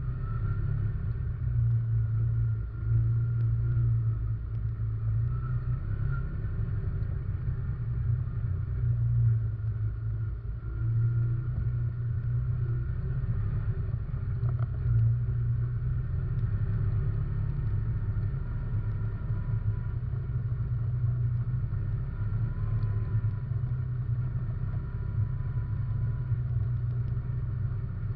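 Quad bike (ATV) engine running steadily under way, a continuous low drone heard from a camera mounted on the machine.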